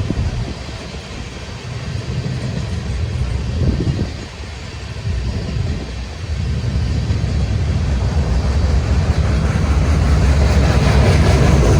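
Train passing on the tracks, a steady low rumble that builds louder through the second half.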